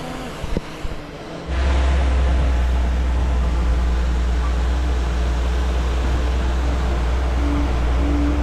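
Heavy machine engine, most likely the bulldozer's diesel, heard first at a low level with a couple of sharp knocks, then about a second and a half in jumping abruptly to a loud, steady low rumble that holds.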